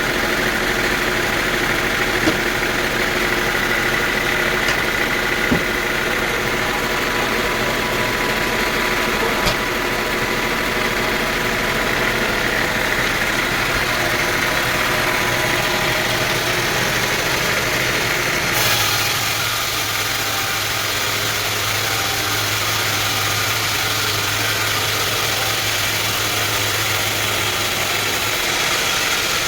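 Sawmill machinery running steadily, engine-like, with a few sharp knocks in the first third. The sound shifts abruptly about two-thirds through, to a similar steady running with a deeper hum.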